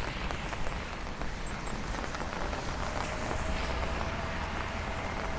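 Steady rain with the hiss of traffic on a wet city street.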